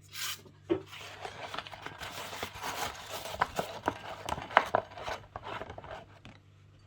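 Kitchen food-preparation handling: continuous rubbing and rustling with many light clicks and taps, like ingredients being worked by hand or with a utensil against a bowl. A faint steady low hum runs underneath.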